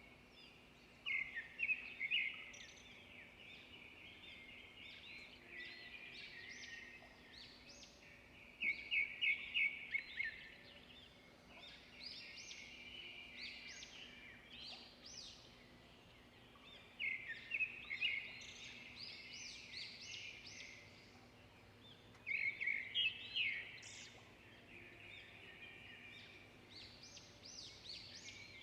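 Songbirds singing and chirping, with a louder burst of rapid repeated song notes every several seconds and softer chirps in between.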